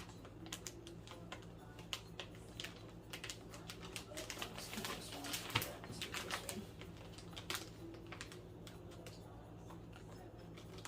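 Irregular light clicks and taps from a countertop vacuum sealer's buttons and lid being worked, busiest about halfway through, over a steady low hum.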